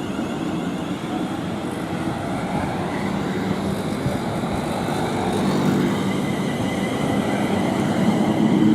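Class 350 Desiro electric multiple unit moving through the station, giving a steady rumble of wheels on rail with a low hum that swells again near the end.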